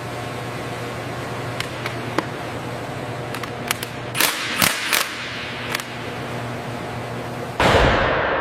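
Steady factory machinery hum with scattered sharp clicks and a cluster of louder snaps, then a loud metallic clang about seven and a half seconds in that rings on and slowly fades.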